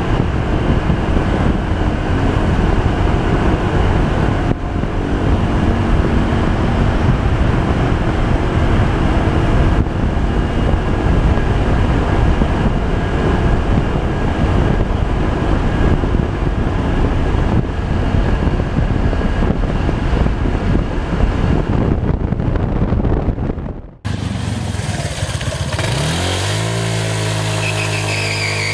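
Honda PCX 125 scooter riding along, its single-cylinder engine under heavy wind and road noise. About 24 seconds in, the sound cuts off abruptly. A new stretch follows in which the engine note rises and then holds steady.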